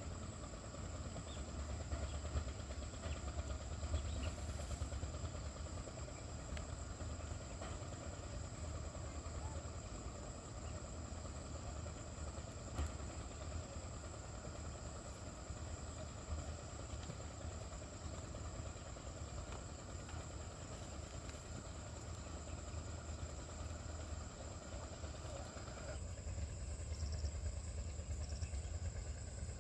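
Insects, crickets or cicadas, droning steadily at a high pitch, over a low rumble, with a few faint knocks.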